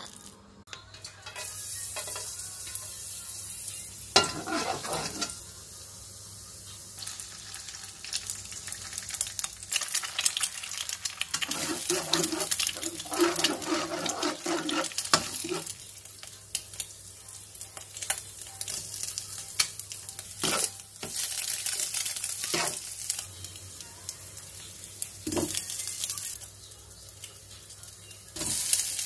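Spice paste and then eggs frying in a nonstick wok, sizzling steadily while a spatula scrapes and taps against the pan. Near the end the sizzle jumps louder as a mass of flat rice noodles goes into the hot oil.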